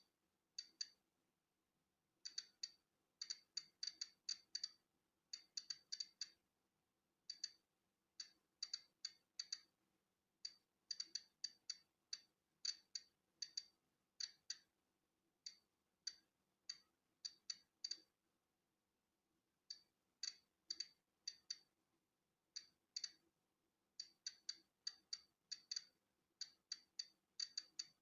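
Polon EKO-C digital Geiger counter clicking at random, uneven intervals, about two sharp high-pitched ticks a second, with a pause of over a second about two-thirds of the way through. Each click is a count of natural background radiation.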